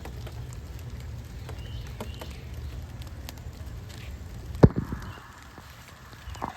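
Rain ticking in scattered drops against a low rumble of wind or handling on the microphone. A single loud knock comes a little past halfway, and the rumble falls away after it.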